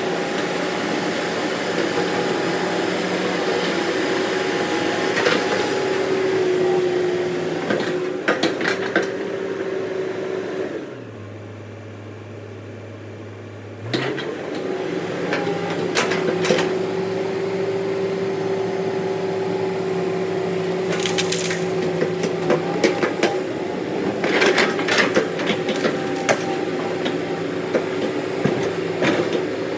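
Heavy tracked machine's diesel engine running steadily, with scattered knocks and clanks of metal and wood. About eleven seconds in the engine sound drops away to a low hum for about three seconds, then picks up again.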